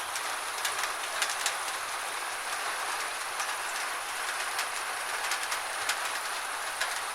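Gentle rain falling steadily, a soft even hiss with scattered louder drops ticking at irregular moments.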